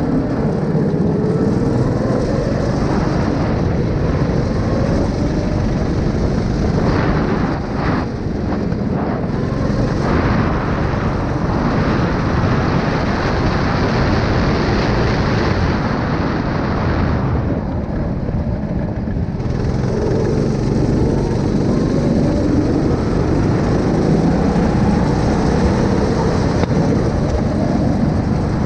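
A 9 hp engine running continuously, its pitch wandering slightly up and down.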